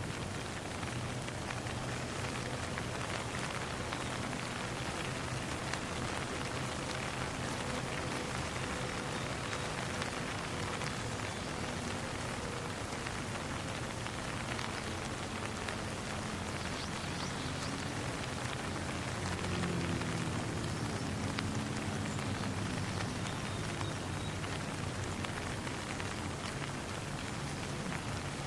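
Steady rain falling with an even hiss, with faint low steady tones running underneath.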